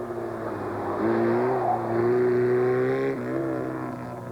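Ford Cortina rally car's engine accelerating hard, its note rising, dropping at a gear change about three seconds in, then rising again.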